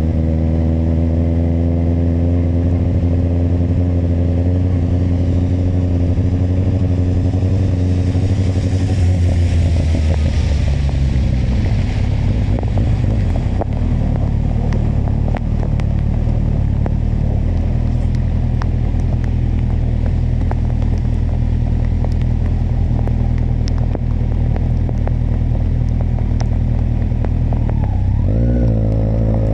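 Kawasaki motorcycle engine running on the road, its pitch falling about a third of the way in as the bike slows, then holding a lower steady note. Near the end the revs dip briefly and climb again.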